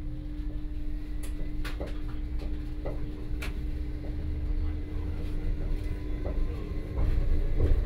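Electric cog-railway train running along the track: a low rumble with a steady hum and scattered sharp clicks and knocks, growing louder near the end.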